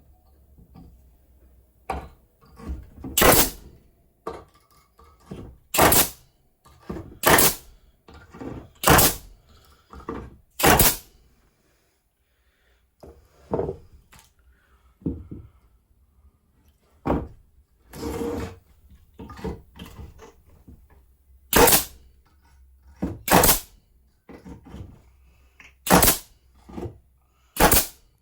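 Pneumatic denailer firing again and again, each shot a sharp thunk as it punches a nail out of pallet wood. Nine loud shots come one to three seconds apart, with a lull in the middle and quieter knocks between them.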